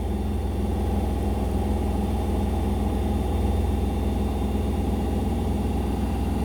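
Indesit BWE101683 washing machine in its spin cycle, the drum turning at speed with a steady low hum and a fast, even pulsing rumble.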